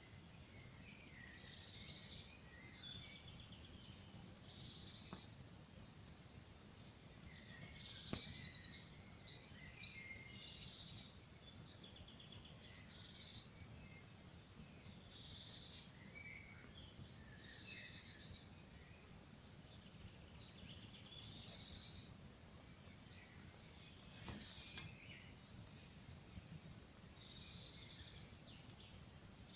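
Several forest birds singing, with many overlapping short chirps and trills that swell about eight seconds in, over a low steady hiss. A few single sharp pops from a campfire crackling.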